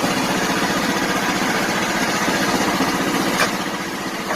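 Small gasoline engine of a portable bandsaw sawmill running steadily. There is a brief click about three and a half seconds in.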